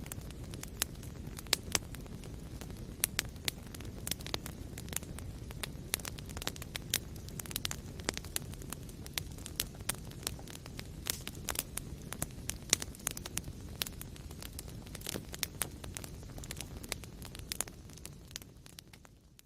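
Wood fire in a fireplace burning with a steady low rumble and frequent sharp crackles and pops. The sound fades down over the last second or so.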